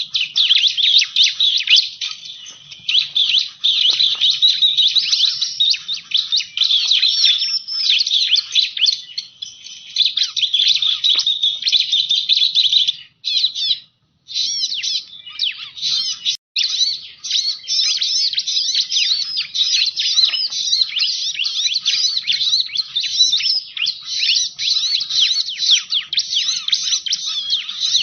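Bar-winged prinia (ciblek) song: a dense, continuous stream of rapid high chirps and trills. There is a short break about halfway through.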